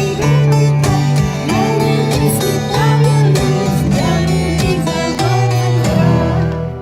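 Loud guitar-led music with plucked strings, stopping just before the end.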